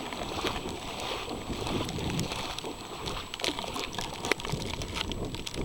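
Harbor floodwater sloshing and lapping, with scattered small splashes.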